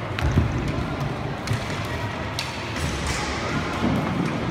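Inline roller hockey play: several sharp clacks of sticks and puck, about four across a few seconds, over a steady low rumble of the rink.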